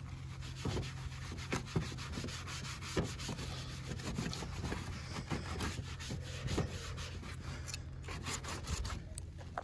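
Microfiber cloth rubbing back and forth over plastic car trim, wiping in trim restorer with a run of short scrubbing strokes.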